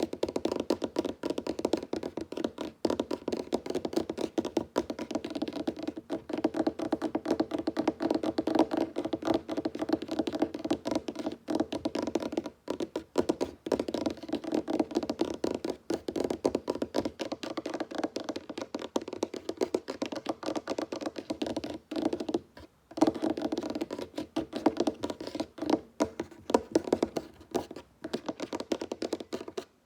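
Fingertips and nails tapping fast on a wooden tabletop: a dense, continuous patter of hollow wooden taps, with a brief pause about two-thirds of the way in.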